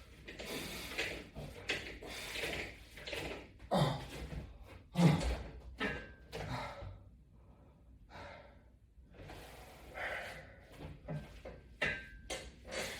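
A man breathing hard with effort through repeated resistance-band hamstring curls, with a single knock about five seconds in.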